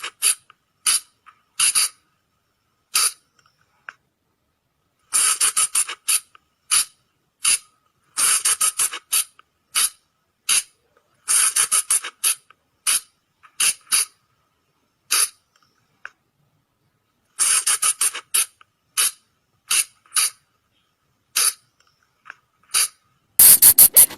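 Sunda colugo (flying lemur) calls: short, sharp, high squeaks, given in rapid trains of several notes with single squeaks and brief gaps between, and a louder run near the end.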